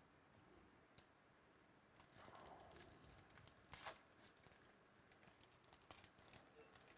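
Faint crinkling and tearing of a trading-card pack wrapper and clicking of cards being handled, in a quick run of small crackles and ticks. It starts about two seconds in, with the sharpest crackle just before the four-second mark.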